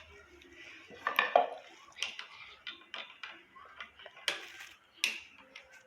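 Metal tools clinking and clattering as they are picked up and handled: a run of sharp separate clicks and knocks, loudest about a second in and again around four and five seconds in.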